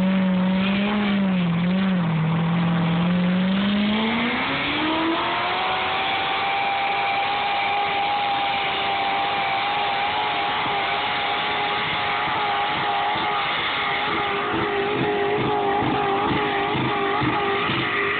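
Pulling tractor's engine at full throttle during a pull. Its pitch climbs steeply about four seconds in, then holds high and steady, wavering a little near the end.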